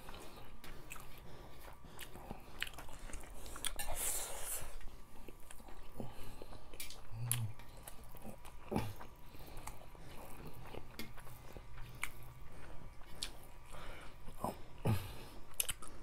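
Close-up eating sounds: chewing and smacking mouthfuls of rice and fish soup, with many short sharp clicks scattered throughout and a brief hiss about four seconds in.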